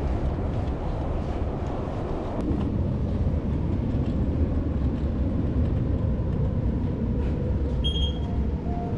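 Steady low rumble of train and station noise, with a short high electronic beep about eight seconds in, followed by a brief lower tone.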